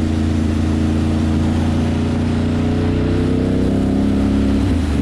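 Ducati Monster's V-twin engine running under way. Its pitch climbs slowly as it pulls, then drops abruptly near the end.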